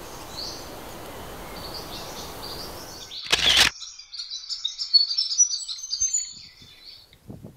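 Small birds chirping and twittering in high, quick notes. For the first three seconds a steady rushing noise lies under faint chirps; then a short loud rush, after which the noise drops away and a busy run of chirps comes through clearly.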